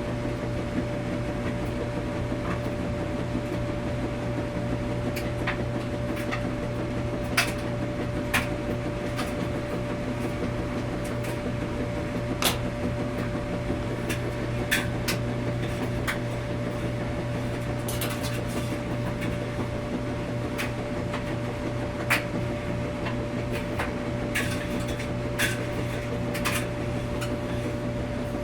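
Washing machine running with a steady low hum and a steady whine, with scattered light clicks and knocks at irregular intervals.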